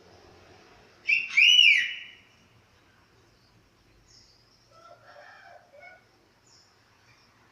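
Chestnut-capped thrush singing: a loud whistled phrase of rising-and-falling notes about a second in, followed by softer short chirps a few seconds later.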